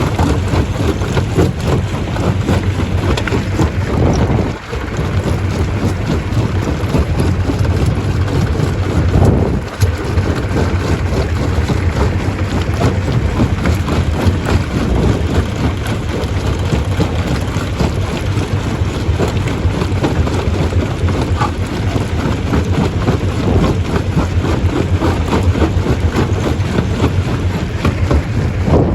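Stone crusher running and crushing rock: a loud, dense, continuous rumble and clatter, with brief dips about four and a half and ten seconds in.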